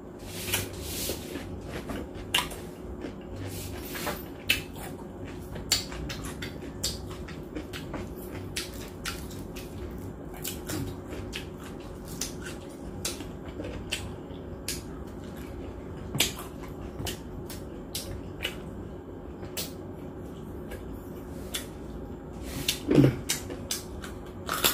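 Eating sounds of roast pig's head (lechon ulo): wet chewing and lip smacks with many short sharp clicks, and hands tearing meat from the head. A brief hum near the end.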